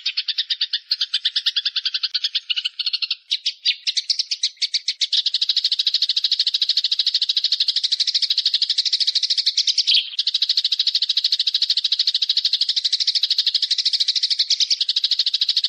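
A songbird trilling without a break, a dense rapid rattle of high notes. About three seconds in the trill quickens into an even faster, unbroken buzzing trill that holds to the end.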